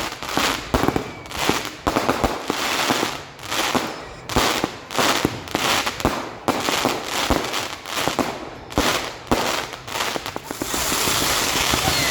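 Fireworks going off in a dense barrage: rapid overlapping bangs and crackling, several a second, in swelling clusters. About ten seconds in, the bangs give way to a steady hiss.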